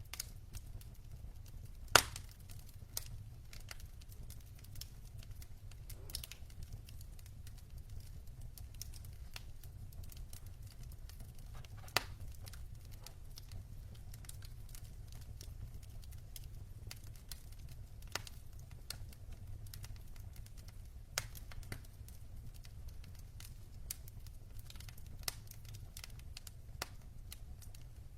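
Wood fire in a fireplace crackling: scattered sharp pops and snaps from the burning logs over a steady low rumble. The loudest pop comes about two seconds in, with another strong one about twelve seconds in.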